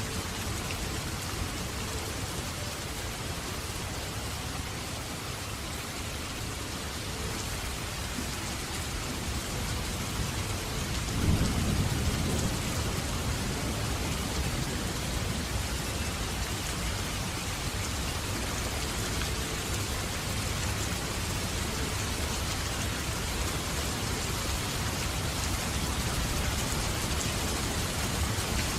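Steady rain falling, with a low rumble of thunder breaking in about a third of the way through and fading over a few seconds.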